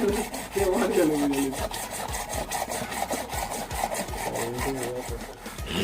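A PVC drain pipe fitting being cut by hand with a saw: a quick run of back-and-forth rasping strokes, several a second.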